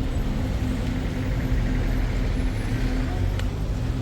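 Motor vehicle on the move: a steady, low engine and road rumble.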